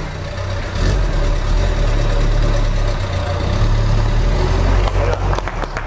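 Fiat 600's small rear-mounted four-cylinder engine running steadily at idle, with hand clapping starting near the end.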